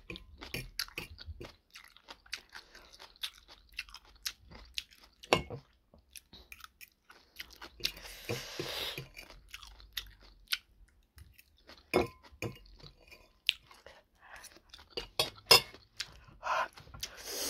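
Close-up chewing and crunching of homemade kimchi, wet mouth sounds with scattered sharp clicks, some from a metal fork against a ceramic bowl. A short breathy rush of noise comes about eight seconds in.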